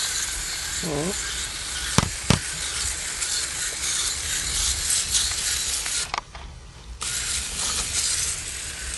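Aerosol can of Nu-Calgon no-rinse evaporator coil cleaner spraying onto the coil: a steady hiss that breaks off for about a second about six seconds in and then resumes, with two sharp clicks around two seconds in.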